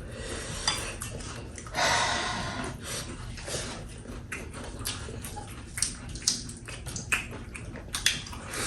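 Eating at a table: cutlery clinking against a plate in scattered light clicks, with a short noisy stretch about two seconds in.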